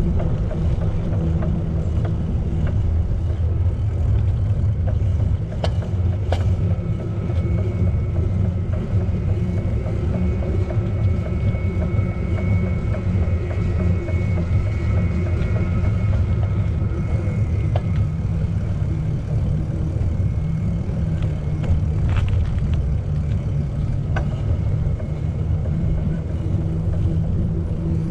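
Wind buffeting the microphone and rumbling on a moving bicycle, steady throughout. A faint steady high tone comes in a few seconds in and fades about two-thirds of the way through.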